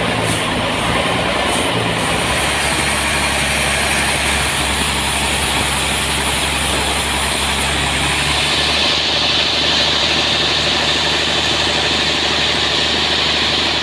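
Sawmill machinery running steadily with a low engine hum, a hissing band growing louder about eight seconds in as the saw works.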